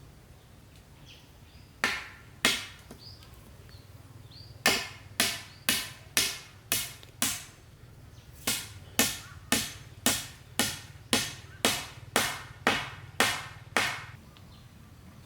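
Chopping wood with a blade: sharp strikes at about two a second, in three runs (two strikes, then six, then eleven).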